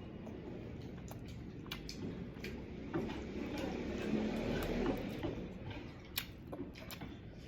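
A person eating rice and pork by hand: wet chewing and mouth smacks with scattered small clicks, a little louder and busier between about three and five seconds in.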